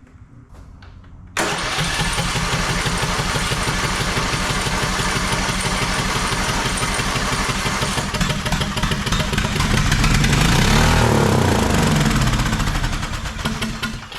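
Small riding-mower engine from a Craftsman lawn tractor firing up suddenly about a second and a half in after fuel is added, then running steadily. Its speed swings up and back down about eleven seconds in, and it shuts off near the end. The test run shows the engine still works.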